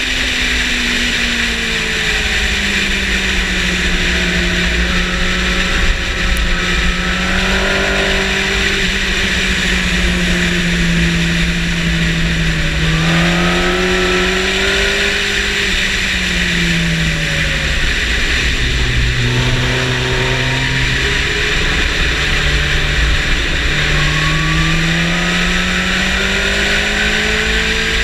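Yamaha sport motorcycle engine at speed on a race track, its note climbing and falling repeatedly as it accelerates, shifts and slows for corners, under a steady loud rushing noise.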